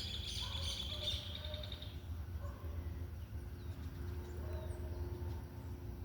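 A bird chirping in a rapid, even series, fading out about two seconds in, over a steady low rumble.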